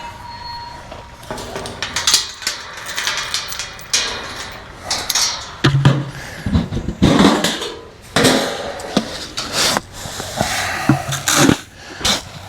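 Hay being handled and put out for goats: irregular rustling and crackling with scattered knocks and footsteps.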